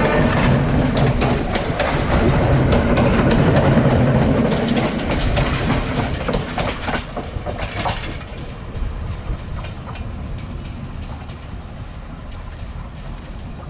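Diesel train running past, its engine rumbling and wheels clattering over the rail joints, then fading away over the last few seconds as it moves off.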